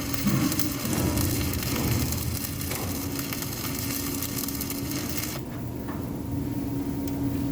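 Electric arc welding: the arc crackles and hisses steadily, then cuts off suddenly about five seconds in as the weld bead is stopped. A steady low hum runs underneath.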